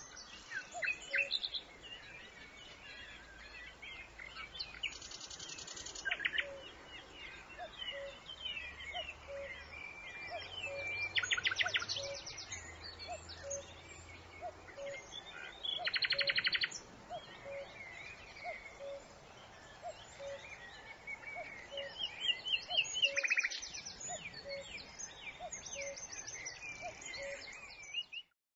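Several wild birds singing and chirping together, with rapid high trills breaking in four times, and a short lower note repeating about once a second underneath. The birdsong stops abruptly just before the end.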